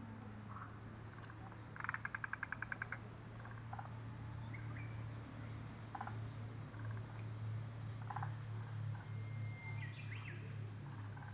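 Wild birds calling in woodland: short scattered calls, with a rapid run of about ten quick notes about two seconds in, the loudest sound. A steady low hum runs underneath.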